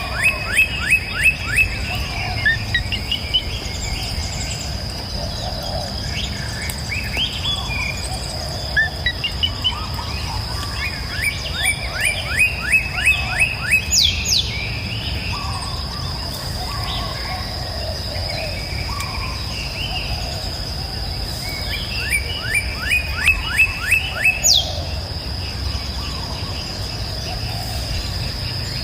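Tropical rainforest ambience: a steady high-pitched insect drone under a low rumble. A bird calls three times in a rapid run of repeated chirping notes, about four a second.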